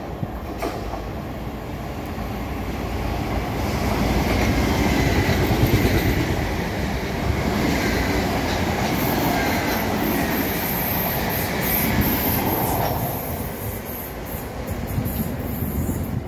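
A train moving past on the track: a heavy rumble that builds over the first four seconds and holds, with a faint high whine through the middle, easing near the end.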